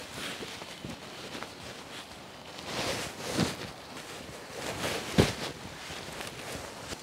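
Irregular footsteps with rustling, and a couple of heavier thuds about three and a half and five seconds in.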